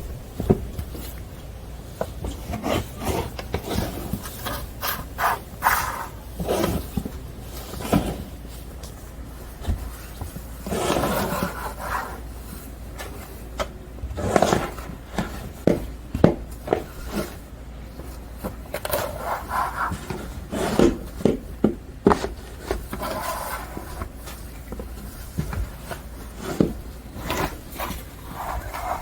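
Snow shovel scraping and pushing snow in irregular strokes every second or two, with sharp knocks in between.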